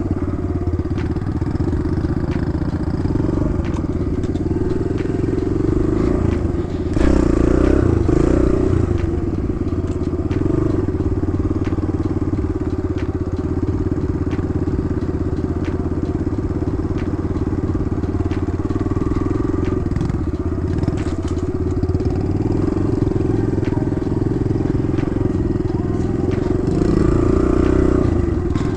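Kawasaki KLX110 dirt bike's small single-cylinder four-stroke engine running steadily while riding a trail, the revs rising briefly about seven seconds in and again near the end, with light clicks and knocks throughout.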